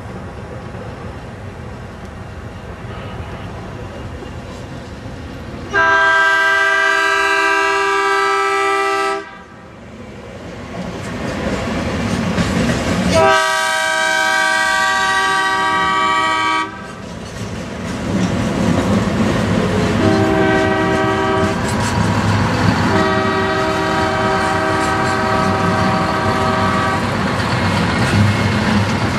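CSX diesel locomotive's multi-chime air horn sounding the grade-crossing signal: long, long, short, long. The first two blasts are loud and the last two quieter, over the steady rumble of the train rolling on the rails.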